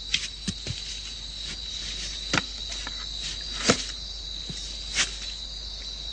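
Steady high-pitched drone of insects, cricket-like, with several separate clicks or knocks over it, the loudest about two-thirds of the way through.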